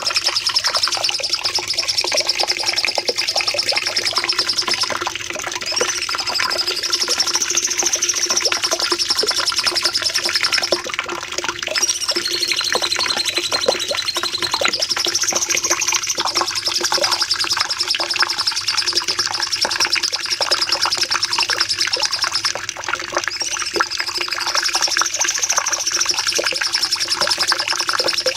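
Cucak cungkok singing a long, unbroken rapid-fire song: a dense, fast chatter of notes with rising-and-falling whistled phrases woven through, dipping briefly a few times before carrying on.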